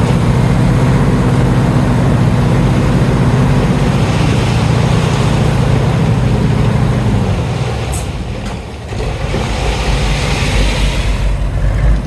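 Heavy diesel engine of earthmoving machinery running steadily, then easing off about eight seconds in with a sharp click, followed by a brief hiss.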